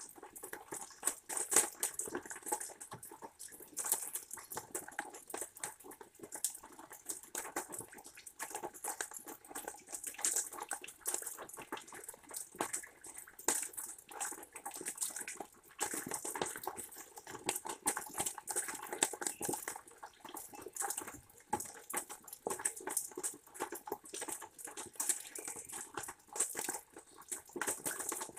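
Rain pattering in dense, irregular ticks of drops.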